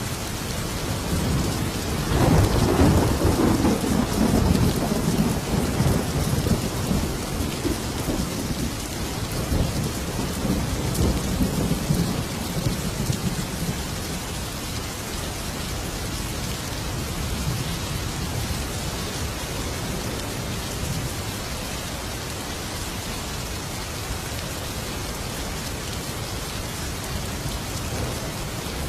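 Thunderstorm: steady heavy rain with a long roll of thunder rumbling in about two seconds in and dying away over the next ten seconds or so.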